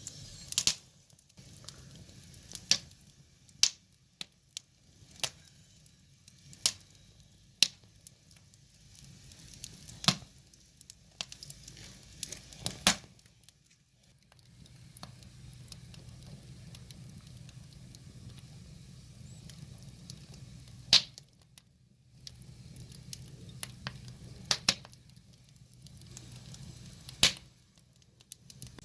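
Firewood burning: irregular sharp crackles and pops, a few of them loud, over a low steady noise from the fire.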